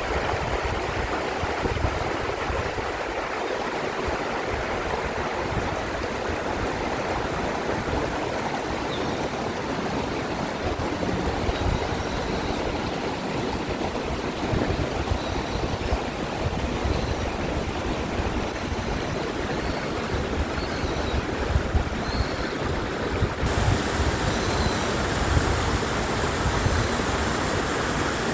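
Mountain valley stream rushing steadily over rocks, with faint short high chirps, like small birds calling, from about nine seconds in.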